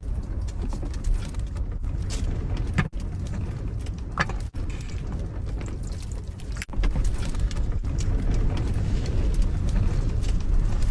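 Strong wind gusting against a small camper, a heavy low rumble with light clicks of handling, growing stronger about two-thirds of the way through; the wind is wild.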